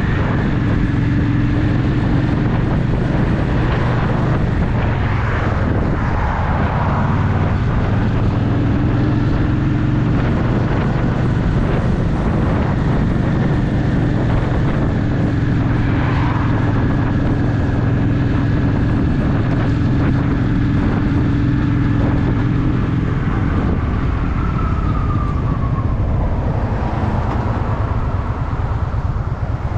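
Honda Shadow VT750 V-twin engine running as the motorcycle rides through traffic, a steady low rumble whose note shifts a few times, with a pitch falling away about 25 seconds in.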